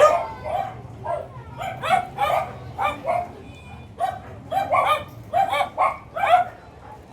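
Dogs barking repeatedly in short, rapid barks, about two a second, with a brief pause a little past the middle.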